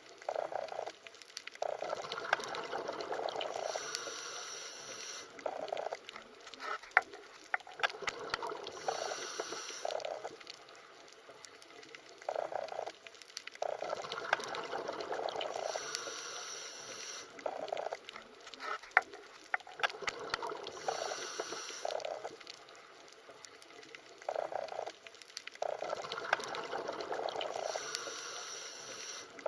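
Underwater bubbling and gurgling that swells and fades about every six seconds, with scattered sharp clicks.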